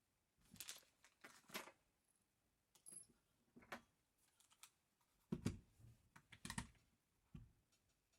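Small metal and plastic parts of an airsoft 1911 pistol being handled: a scattered series of short clicks and rattles, with a few heavier knocks about five and a half and six and a half seconds in.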